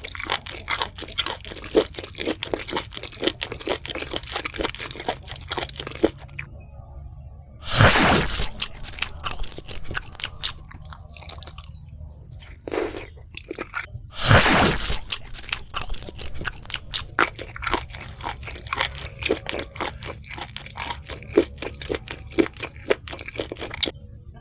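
Close-miked eating of crispy fried food: rapid crunching and chewing, with two loud, longer crunches about a third and about two-thirds of the way through, and a brief pause before the first.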